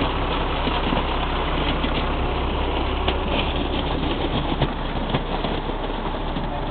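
Tractor engine running steadily at idle, with a few light knocks.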